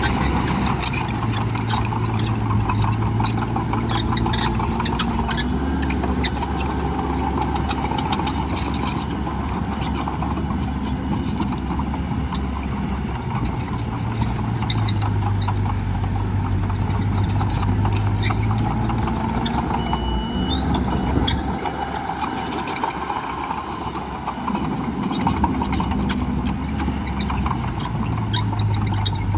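Heavy diesel engines of earthmoving machines working continuously, their engine note dropping and rising several times as load changes, over a steady rattle.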